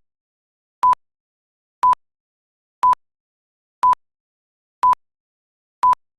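Short electronic beep of one steady pitch, repeating once a second, six times, with dead silence between.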